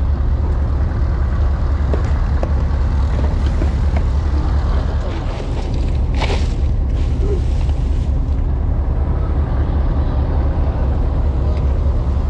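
A steady low engine drone, with a short noisy burst about six seconds in.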